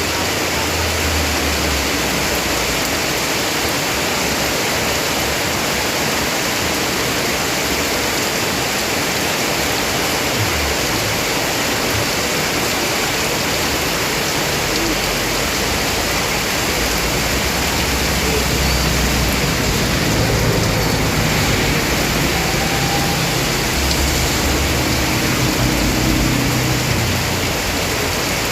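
Heavy rain pouring down, a loud, dense, steady hiss. A low rumble comes and goes in the second half.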